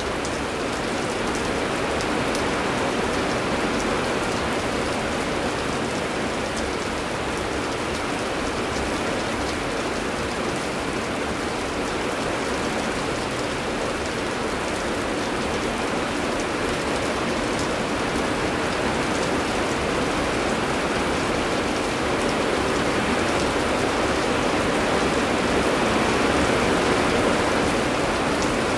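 Heavy rain falling steadily: a dense, even hiss with scattered sharper drop ticks, growing a little louder near the end.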